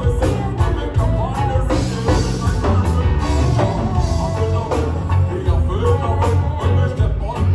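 Live band playing a song with a steady drum beat and heavy bass under a sung melody.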